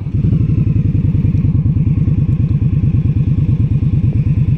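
Indian Scout Sixty's V-twin engine running at low revs with a steady, even pulse as the motorcycle rolls slowly.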